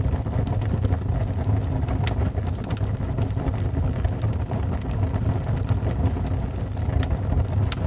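Wood fire burning in a fireplace: a steady low rumble of flames with a few sharp crackles and pops of the logs.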